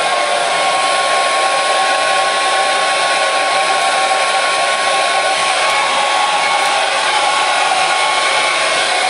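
Hair dryer running steadily: a loud, even rush of blown air with a constant motor whine on top.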